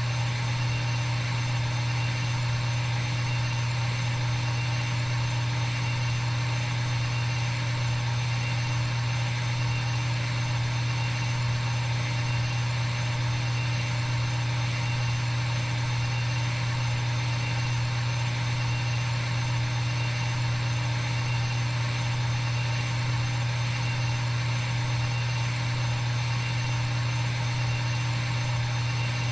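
Steady machine hum that never changes: a strong low drone with fixed higher tones above it.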